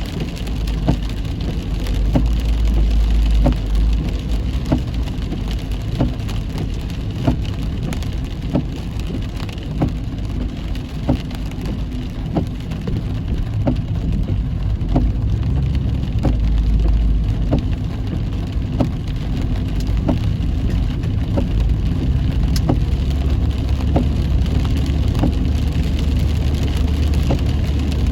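Heavy rain hitting a car as it drives, over steady tyre and engine rumble, with a sharp tick about every second and a quarter.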